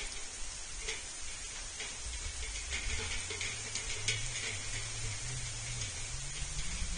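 Outdoor feeder-cam microphone picking up steady hiss with a low, wavering hum and a few faint clicks.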